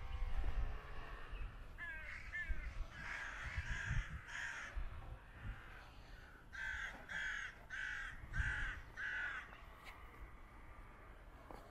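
A bird calling: a run of short calls about two seconds in, then five evenly spaced calls a little over half a second apart from about six and a half seconds in.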